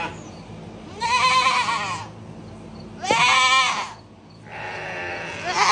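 Billy goats and rams bleating loudly, three long wavering calls in turn. They are calling after the does and ewes that were moved away from them.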